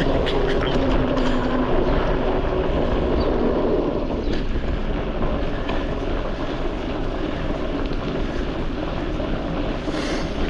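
Steady wind rumble on the microphone of a bike-mounted camera while cycling, mixed with riding noise.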